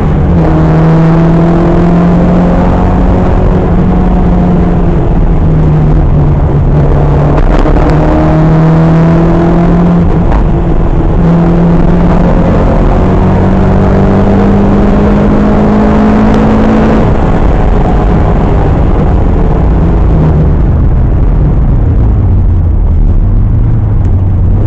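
Rally car engine heard from inside the cabin at full throttle, pitch climbing and then dropping sharply at each of several upshifts. Over the last few seconds the revs fall away and pick up again right at the end, with steady road noise from the gravel surface underneath.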